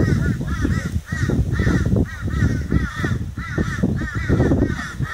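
A bird calling over and over in quick runs of short rising-and-falling notes, about three or four a second, over a loud, uneven low background noise.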